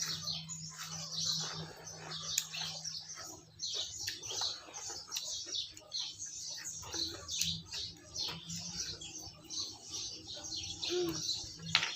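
Small birds chirping and twittering over and over, with a low steady hum underneath.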